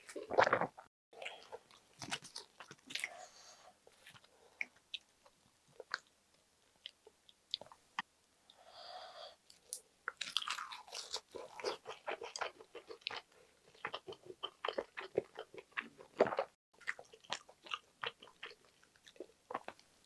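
Eating sounds: biting and crunchy chewing of braised kimchi, pork belly and tofu, in many short crisp clicks. A bite of a roasted-seaweed-wrapped mouthful comes about ten seconds in, with a denser run of crunching.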